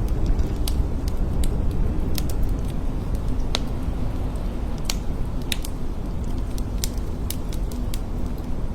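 Blizzard wind blowing steadily, a dense low rush with no let-up, with scattered light ticks throughout.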